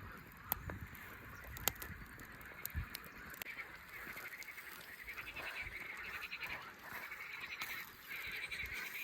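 Animal calls, rapidly pulsed and coming in repeated bursts, start about three and a half seconds in and keep going. A few sharp clicks come before them.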